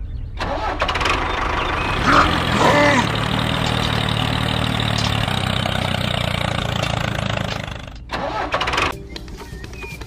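Engine of a homemade mini tractor running steadily, then dropping off about eight seconds in, rising briefly, and settling to a quieter idle near the end.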